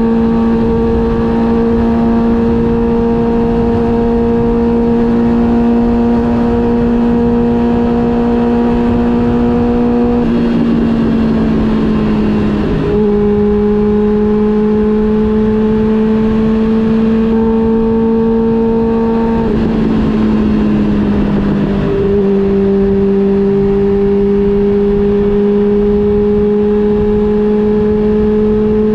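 Honda CB400 Super Four Revo's inline-four engine running steadily at road speed, with wind and road noise under it. Its pitch sags twice as the throttle eases, settles again, and starts to rise near the end.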